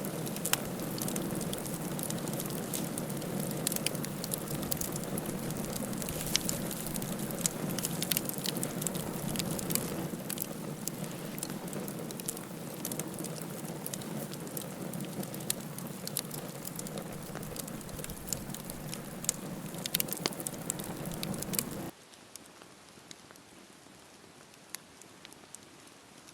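Campfire burning: a steady hiss from the flames with frequent sharp crackles and pops from the burning wood. About 22 seconds in the sound drops suddenly much quieter, leaving a faint hiss and occasional pops.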